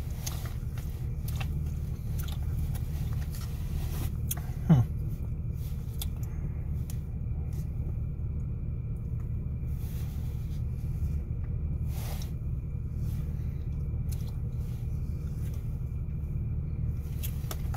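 Faint chewing and biting while eating a peanut butter cup, over a steady low rumble inside a car. A short sound falling in pitch comes about five seconds in.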